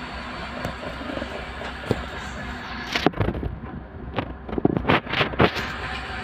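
Hyundai Santro Xing's four-cylinder petrol engine idling at about 1000 rpm, a steady low hum. From about three seconds in, several loud, irregular crackling noise bursts sit on top of it.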